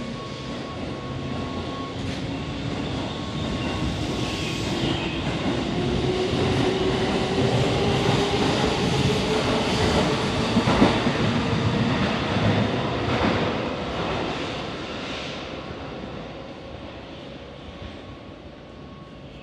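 Keihan 8000-series electric train running along an underground station platform. A motor whine rises in pitch and wheels click over rail joints; the train grows louder to a peak a little past halfway, then fades away.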